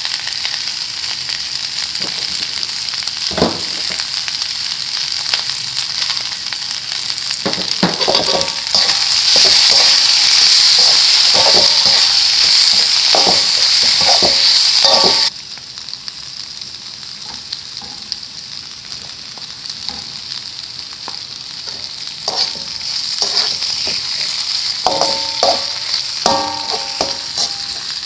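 Egg stir-frying in hot oil with meatballs and chicken, sizzling steadily, while a spatula clinks and scrapes against the pan. The sizzle grows louder about a third of the way in, then drops off suddenly about halfway.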